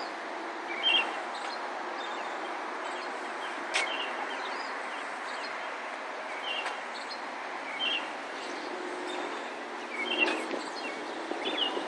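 Small birds chirping in short calls every second or two over steady outdoor background noise, with one sharp click about a third of the way in.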